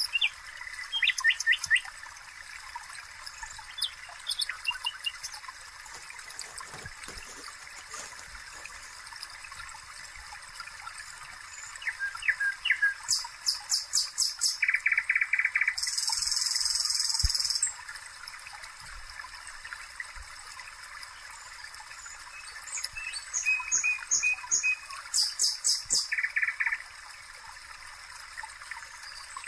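Songbirds chirping, with bursts of rapid high trills around the middle and again near the end, over a steady hiss. Faint knocks underneath, like a knife on a wooden cutting board.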